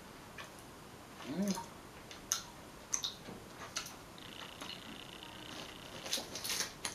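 Crunchy mini butter toffee candy being chewed close to the microphone: scattered sharp crunches and mouth clicks, with a brief hummed sound about a second and a half in and a quick cluster of crunches near the end.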